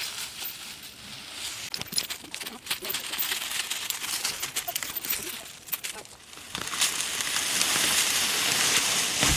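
Rustling and snapping of dry brush, leaves and twigs: scattered crackles at first, then a louder, steady rustle over the last few seconds.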